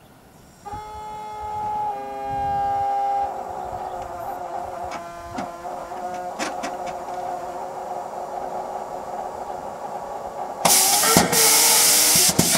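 Kamov Ka-26 helicopter during a stubborn cold start. A steady whine comes on under a second in and holds, with scattered clicks. About ten seconds in, a loud rush of hissing air breaks in with sharp cracks.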